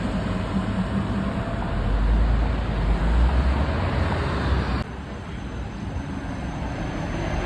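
Tram running in with a low rumble and a faint motor whine. About five seconds in the sound cuts off abruptly to quieter street noise, which then slowly grows louder.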